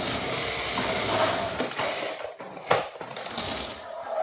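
A 1/10 scale RC rally car driving, its motor running and wheels rolling over the ground, with a single sharp knock about two and a half seconds in.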